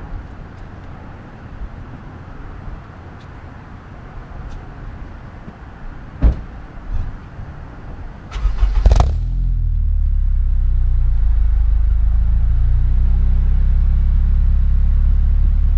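Honda Civic Si's four-cylinder engine, fitted with a cat-delete test pipe and resonator, shorty headers and an aftermarket catback, is cranked and fires about eight and a half seconds in, flares briefly, then settles into a steady low idle. Before it starts there is only faint background hiss and a single click about six seconds in.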